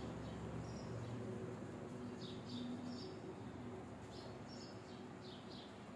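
Small birds chirping: short high chirps, a single one near the start and then two quick runs of them. A faint, steady low hum sits underneath.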